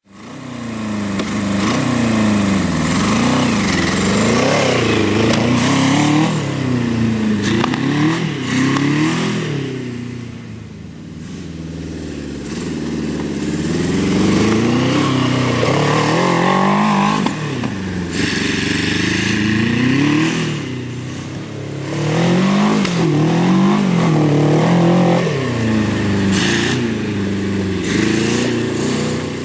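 Go-kart's Suzuki GS750 air-cooled inline-four motorcycle engine running, its note rising and falling over and over as it is revved up and let back down. It eases off for a few seconds about a third of the way in, then picks up again.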